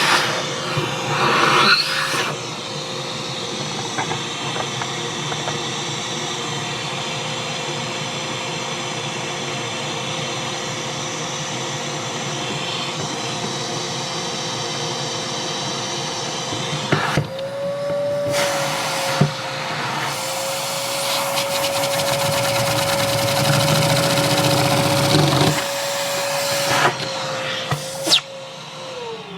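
Vacuum cleaner running with a steady whine and rush of air, its suction driving a Lego vacuum-powered piston engine at high speed. The airflow breaks off briefly about 17 seconds in and again near the end.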